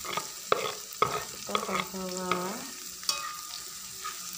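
Chopped spring onions going into a wok of shallots and garlic frying in hot oil, which sizzles; several sharp knocks against the wok, most in the first two seconds and one a little after three seconds in.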